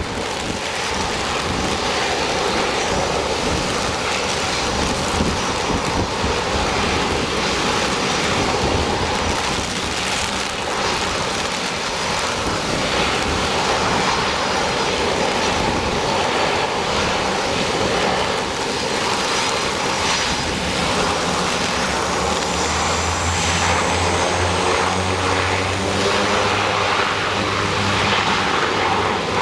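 Bombardier DHC-8 turboprop's engines and propellers running, heard through a steady rush of strong wind on the microphone. About two-thirds of the way through, a low propeller drone and a faint high rising whine come in.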